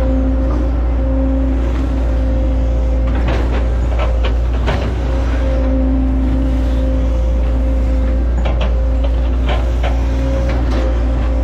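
Hitachi ZX110 hydraulic excavator running under load, its diesel engine and hydraulic pump giving a steady low drone with a whine. A handful of sharp knocks and cracks stand out above it, about three seconds in, near the middle and in the last few seconds, as the machine works an oil palm trunk.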